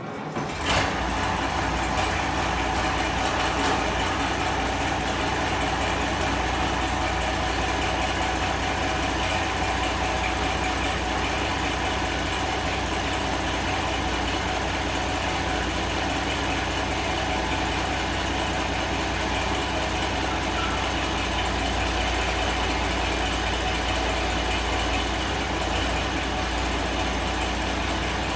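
Farmall 766 tractor engine starting, catching within about a second and then running steadily at idle.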